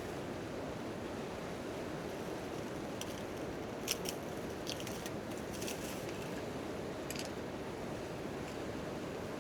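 Steady rain on a tent tarp, with a wood campfire crackling and popping a handful of times in the middle, the sharpest pop about four seconds in.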